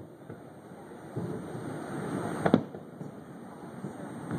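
Aerial fireworks shell bursting: one sharp, doubled bang about two and a half seconds in, over a steady low background noise.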